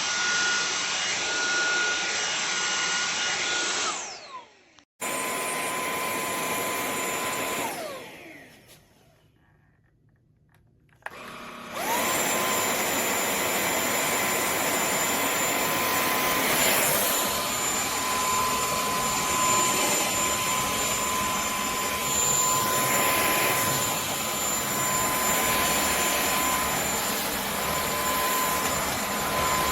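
KCLASO cordless stick vacuum's motor running with a steady high whine. It winds down and stops about four seconds in, runs again and winds down a few seconds later, then after a short quiet gap starts up again with a rising whine and runs steadily.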